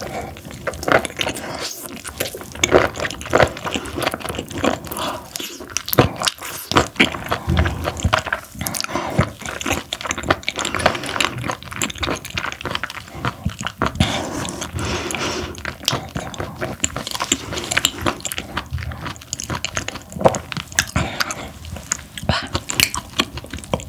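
Close-miked chewing of parboiled webfoot octopus: wet, sticky mouth sounds with dense, irregular clicks and smacks.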